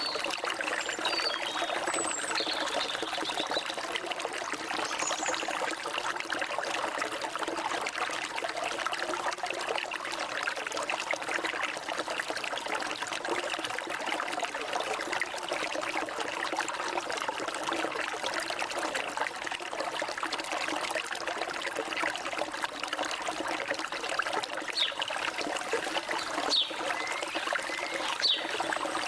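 A stream of water trickling and flowing steadily, with a few brief high bird chirps, mostly in the last few seconds.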